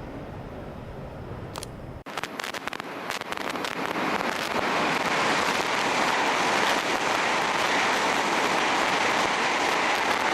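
Shinkansen bullet train passing through at speed: a rushing noise that builds quickly after a brief cut about two seconds in and then holds loud and steady.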